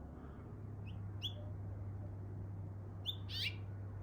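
A bird chirping: short, quick calls that slide down in pitch, a couple about a second in and a louder burst of calls just after three seconds, over a steady low background hum.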